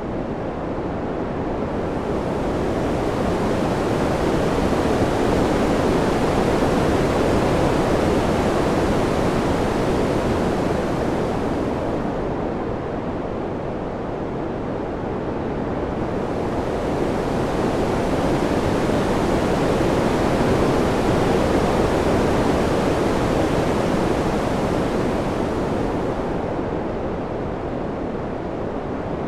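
Wind blowing in slow surges, swelling and easing twice, the hiss growing brighter as each surge rises.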